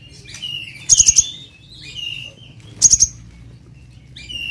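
Kolibri ninja (purple-throated sunbird) singing high, quick chirping phrases and short whistles, with two loud rapid trills, one about a second in and one near three seconds.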